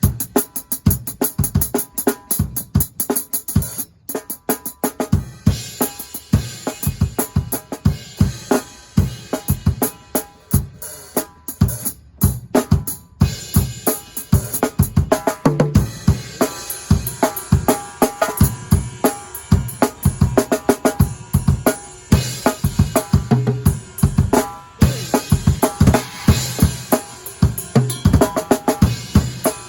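Drum kit being played continuously: a dense, fast run of bass drum and snare hits with cymbals and hi-hat, thinning out briefly a few seconds in and again near the middle.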